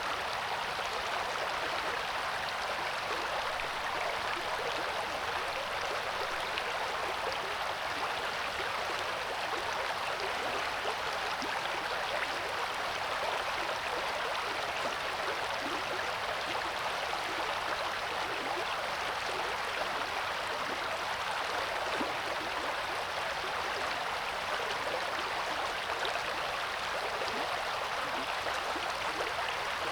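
River water flowing over rocks, a steady rushing and gurgling with no change in level.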